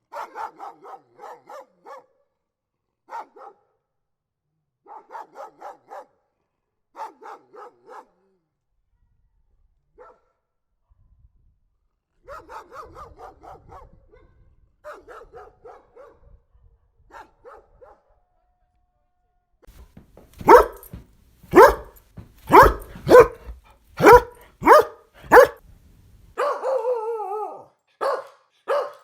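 Angry dog barking: bursts of quick, rapid-fire barks at first. From about twenty seconds in come louder single barks, roughly one a second, broken near the end by a drawn-out snarl.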